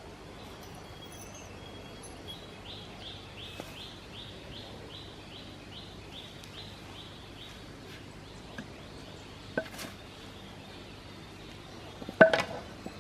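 Steady outdoor background noise with a run of about a dozen short high chirps, roughly three a second, in the first half. Later come a couple of sharp clicks, then the loudest sound, a short cluster of knocks or clinks near the end.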